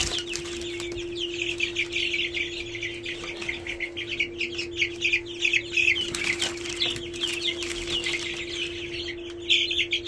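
A brooder full of young broiler chicks peeping continuously, a dense chorus of short high chirps, over a steady low hum.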